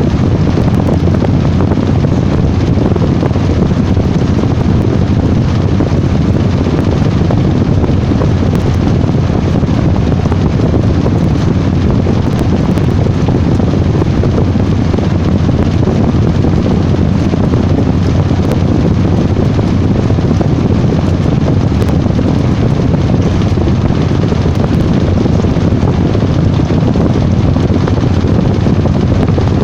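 Washing machine running: a steady, loud rumble with a constant low hum and no pauses.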